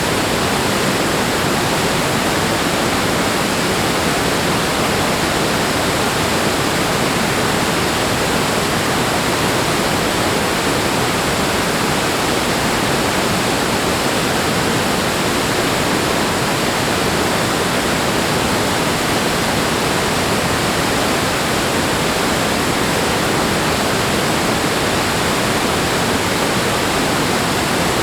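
Rushing water, a steady, unbroken roar of falling or fast-flowing water.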